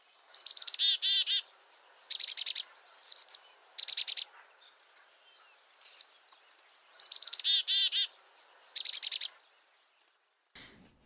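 Black-capped chickadee giving its chick-a-dee call, repeated in about eight short bouts. Each bout is a run of quick, high "chick-a" notes, and some end in lower, harsh "dee-dee-dee" notes.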